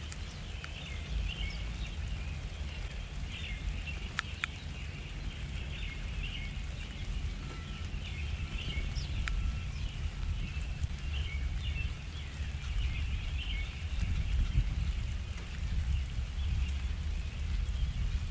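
Small backyard birds chirping on and off in short calls, over a steady low rumble, with a couple of brief clicks.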